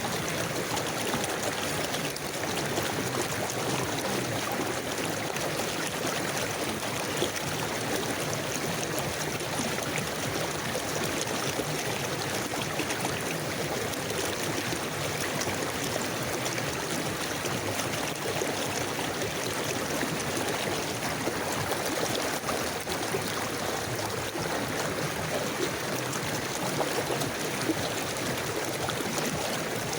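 River water flowing steadily over stones, an even rushing and trickling.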